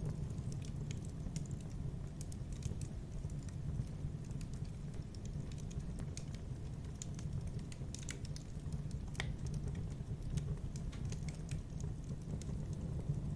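Wood fire in a fireplace crackling: scattered sharp snaps and pops over a steady low rumble of flames, with one louder pop about nine seconds in.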